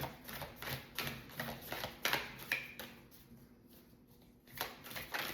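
Tarot cards being shuffled and handled, a quick run of soft snaps and rustles that pauses for about a second and a half after the middle and then starts again near the end.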